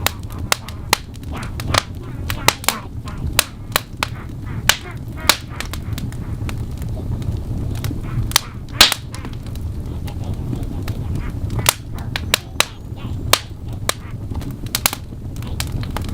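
Wood fire in a fireplace crackling, with irregular sharp pops several times a second over a steady low rumble of the flames.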